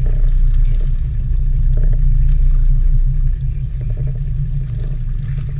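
Fishing boat's engine running steadily, a deep continuous rumble.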